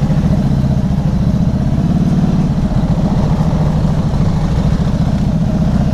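Motorcycle engine running steadily under way, a dense, even firing note with a slight change in pitch about two seconds in.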